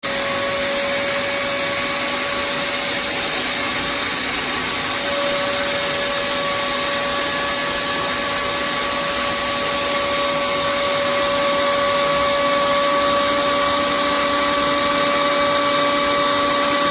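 Cecotec Conga CarpetClean 10000 carpet and upholstery cleaner's suction motor running steadily: a loud, even rush of air with a steady whine over it. It starts abruptly and grows a little louder partway through.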